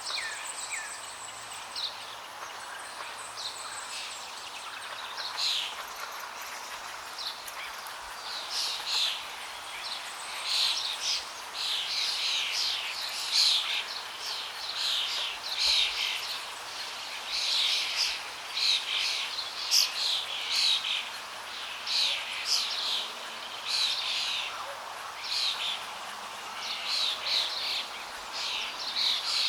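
Songbirds chirping in quick, dense runs of short high notes over the steady rush of flowing water. The chirping grows busier and louder a few seconds in.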